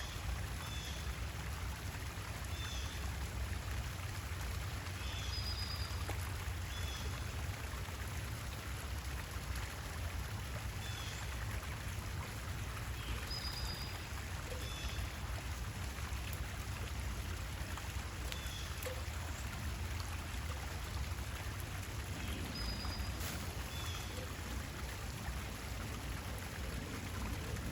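Steady running water, like a pond's trickle or stream, with a small bird giving short high chirps every two to three seconds.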